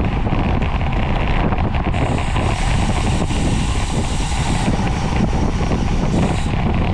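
Wind rushing over the camera microphone of a bicycle racing at speed, loud and steady. A higher hiss joins for a couple of seconds in the middle.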